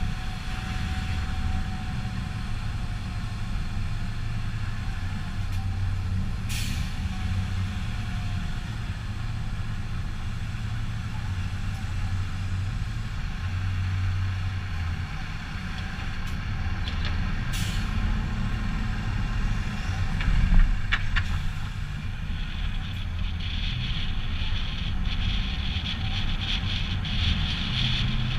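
Heavy diesel truck engine running steadily, with two short hisses of released brake air, about a quarter of the way in and again past halfway.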